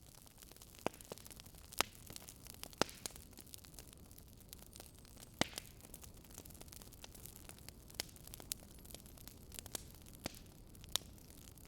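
Wood fire in a fireplace crackling: irregular small ticks with several louder sharp pops scattered through, over a faint steady low rushing noise.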